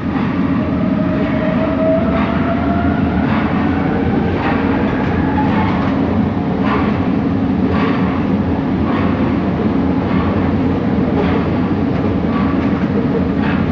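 Bombardier Innovia ART 200 train running, heard from inside the car: a steady rumble with a motor whine that rises in pitch over the first several seconds, and a regular sharp clack about once a second.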